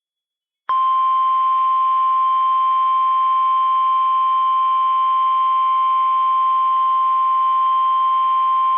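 NOAA Weather Radio warning alarm tone, the 1050 Hz alert tone that announces a warning broadcast, here a severe thunderstorm warning. A single steady, loud tone starts under a second in, after a moment of silence, and holds.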